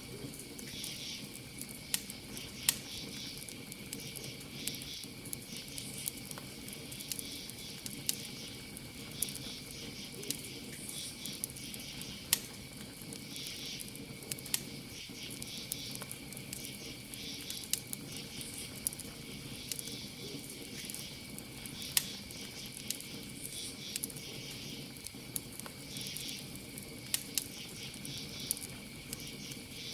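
Campfire crackling, with irregular sharp pops and snaps, over a steady high trill of crickets.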